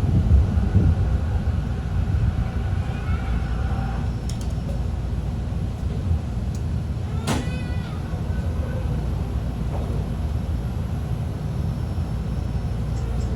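Sky train carriage running along its track, with a steady low rumble. About halfway through there is one short, high squeal.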